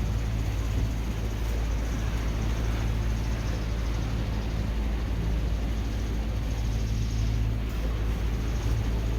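Gale-force wind rushing over the microphone aboard a sailboat in rough seas: a steady heavy rumble with a constant low hum beneath it.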